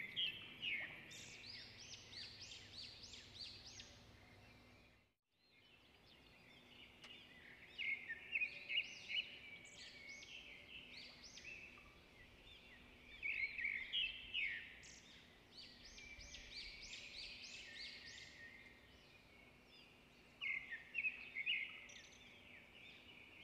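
Small birds chirping in the background, in repeated bursts of quick high chirps every few seconds, with a brief total dropout about five seconds in.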